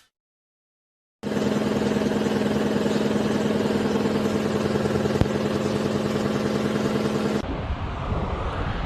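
A vehicle engine running at a steady, unchanging pitch for about six seconds after a second of silence. It cuts abruptly near the end to a different, noisier vehicle sound.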